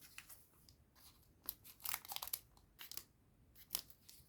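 Foil trading-card booster pack wrapper being torn open and crinkled, in a few short bursts.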